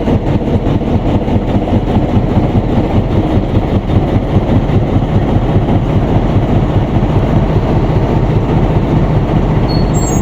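Passenger train hauled by an EP2K electric locomotive rolling in along the platform: a steady low rumble of wheels on rail. Near the end, a faint high wheel squeal begins.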